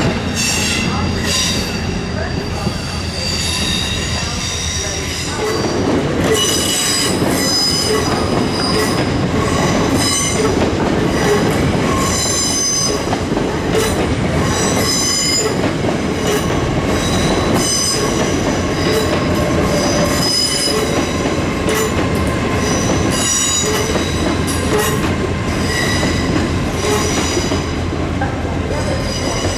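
A train moving through the station, its wheels squealing against the rails in high-pitched squeals that come and go, over a continuous rumble. The squealing grows busier about six seconds in.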